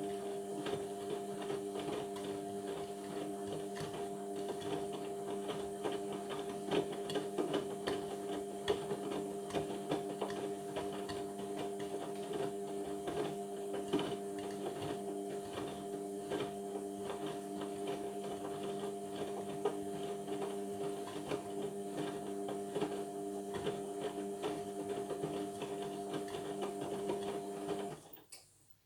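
Indesit washing machine running on its Cotton 60 cycle: a steady motor hum with many small clicks and knocks, which cuts off suddenly near the end.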